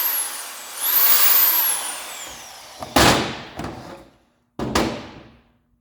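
Handheld variable-speed power tool's motor winding down, then spinning up again to a high whine and slowly winding down as the trigger is released. Two sharp knocks follow, about three seconds and nearly five seconds in.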